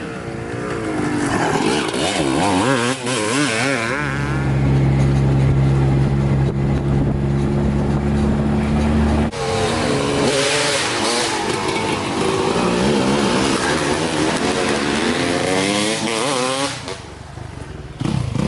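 Dirt bike engines revving, the pitch climbing and dropping as bikes accelerate and shift. A steady, loud engine note is held from about four seconds in and cuts off suddenly a little past nine seconds, and then the revving picks up again.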